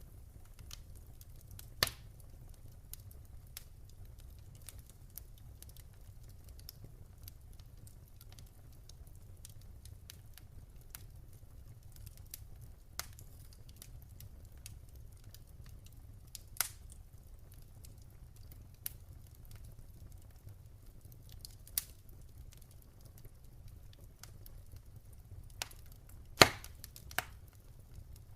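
Wood fire burning in a fireplace: scattered crackles and sharp pops over a low, steady rumble, with the loudest pop about two-thirds of the way through near the end.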